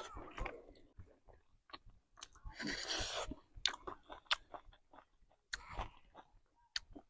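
Close-miked chewing and mouth sounds of a person eating rice and chicken: a string of short wet smacks and clicks, with a longer, noisier stretch about two and a half seconds in and a shorter one near six seconds.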